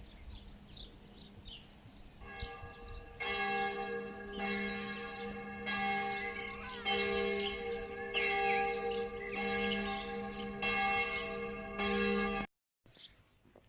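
A single church bell tolling, struck about once every second and a quarter, with birds chirping throughout. The audio cuts off abruptly near the end.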